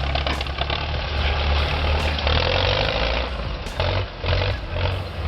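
MTZ-82 tractor's diesel engine running steadily, with a brief dip about four seconds in.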